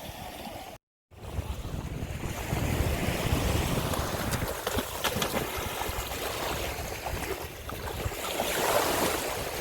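Sea waves washing on the shore, with wind buffeting the microphone as a low rumble. A brief cut to silence comes about a second in.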